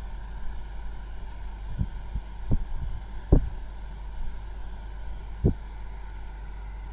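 Honeywell 12 L/day dehumidifier running with a steady low hum. A few dull thumps break in, the loudest about halfway through.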